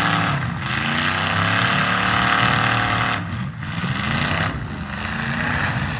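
Demolition derby car engines running and revving, their pitch rising and falling, with brief dips in loudness about half a second in and again a little after three seconds.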